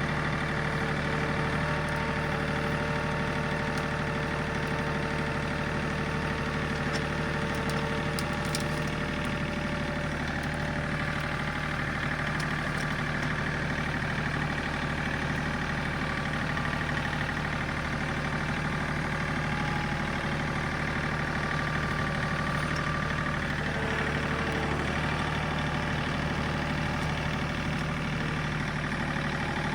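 John Deere 3 series compact tractor's diesel engine running steadily while the grapple works. A higher whine comes and goes over the engine, and there are a few faint clicks about eight seconds in.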